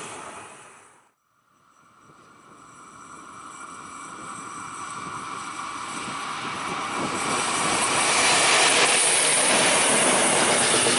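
Electric-locomotive-hauled regional train with double-deck coaches approaching and passing close by on the track. It grows steadily louder for several seconds and then stays loud, with a few steady high tones over the rumble. At the start the sound of an earlier train fades and cuts off about a second in.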